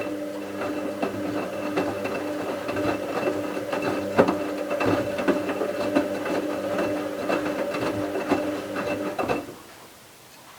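Bauknecht WA 7778 W washing machine's motor turning the drum in the wash cycle: a steady hum with irregular clicks and knocks from the drum and laundry, which stops about nine seconds in.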